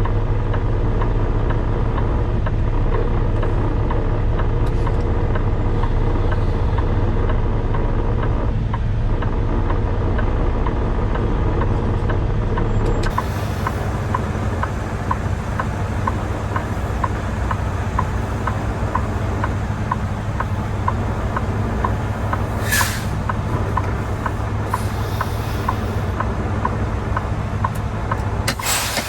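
Semi-truck engine running steadily, easing off about halfway through, after which a regular ticking starts, about one and a half a second. Short bursts of air hiss, typical of the truck's air brakes, come once late on and again at the very end.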